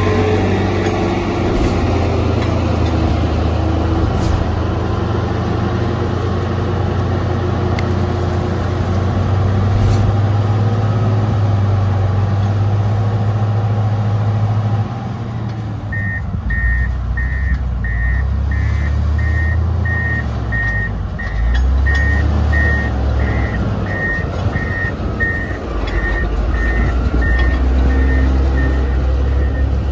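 Road grader's diesel engine running with a steady low drone that shifts in pitch about halfway through, after which its reversing alarm beeps at about one and a half beeps a second until near the end.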